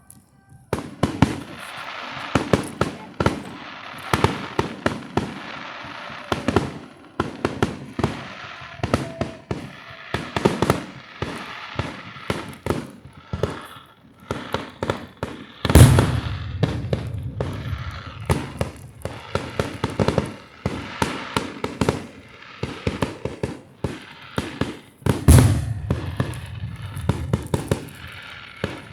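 Fireworks display: a rapid, continuous string of bangs and crackles, with two much heavier booms, one about midway and one near the end, each followed by a low rumble.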